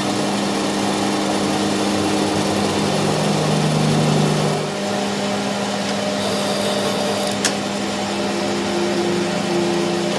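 A motor-driven machine running steadily with a constant hum, with one sharp click about seven seconds in.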